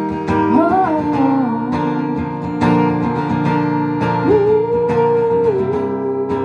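Live acoustic guitar strummed in a steady rhythm, with a held melody line above it that bends and glides in pitch.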